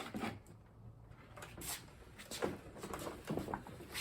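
A few soft knocks and clunks of a lawn mower being handled and tipped on its side to drain its oil, with quiet stretches between.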